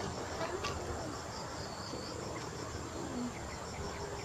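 Insects, likely crickets, chirping in a fast, even, high-pitched pulse, about four chirps a second, over a faint steady hiss.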